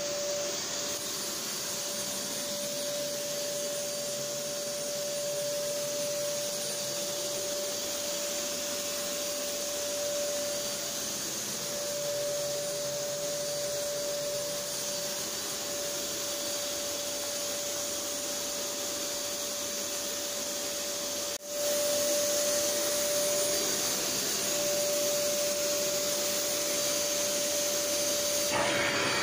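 Fakir Ranger 4A bagless vacuum cleaner running at full power with every setting at maximum: a steady motor whine over a high airy hiss. About 21 seconds in the sound drops out for an instant and comes back a little louder.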